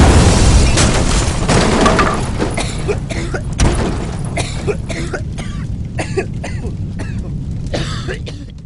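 Fireworks going off: a loud burst at the start, then many sharp crackles and pops that thin out and fade near the end.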